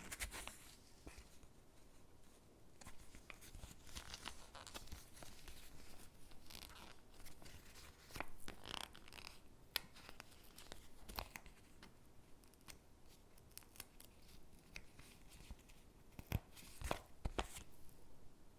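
Stickers being peeled from their backing sheet and pressed onto paper cutouts: faint peeling and paper rustling with scattered light taps, and a few sharper taps near the end.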